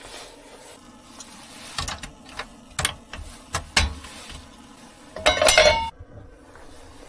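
Hard objects being handled: a few separate knocks and clicks, then a short, louder rattling clatter about five seconds in.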